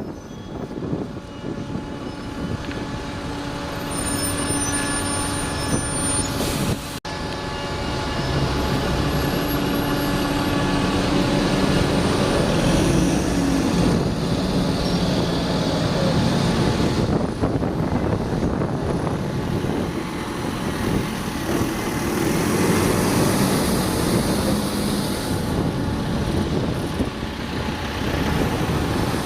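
A bus engine running with street traffic around it. The sound breaks off suddenly about seven seconds in and comes back louder.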